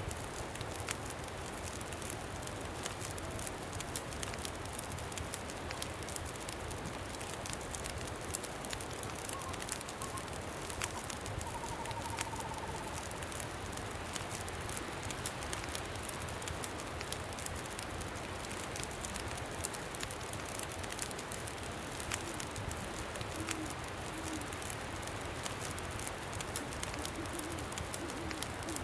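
Campfire crackling steadily under continuous wind noise. Faint bird calls come through: a short higher call about ten seconds in and a few low notes in the last several seconds.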